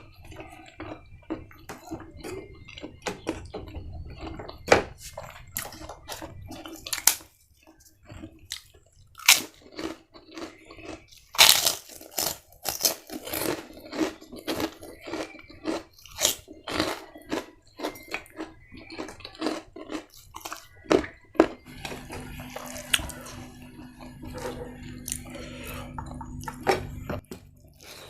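Close-miked chewing and crunching of crisp food: a quick, irregular run of sharp crunches, with the loudest bites about five, nine and twelve seconds in.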